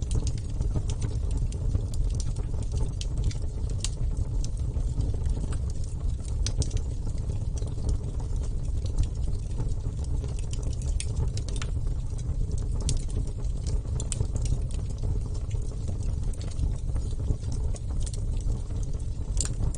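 Wood campfire burning, with irregular sharp crackles and pops scattered over a steady low rumble.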